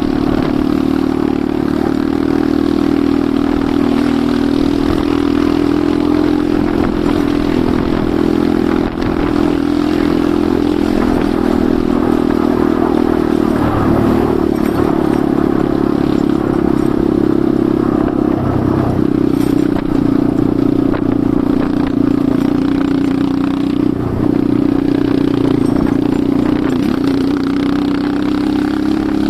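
Enduro motorcycle engine running steadily while riding, its note shifting with changes of throttle about halfway through and again a few seconds later.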